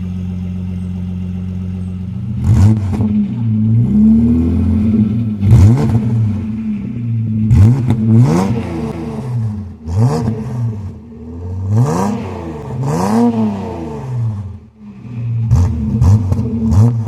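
Holden VS ute's 3.8-litre V6 through a 2.5-inch Redback catback exhaust with one muffler and the stock Y pipe and catalytic converter: idling steadily for about two seconds, then blipped up and back down repeatedly, about eight short revs.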